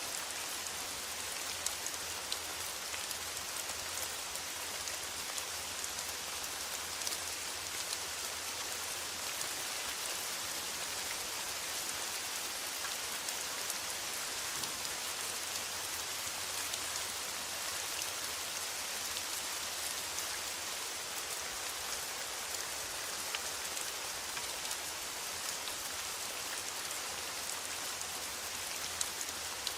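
Rain falling steadily on a metal roof: an even hiss peppered with many small, sharp drop ticks.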